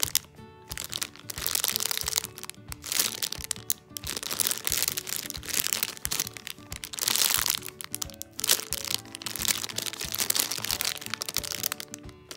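Clear plastic bags around squishy toys crinkling in repeated bursts as they are handled, over quiet background music.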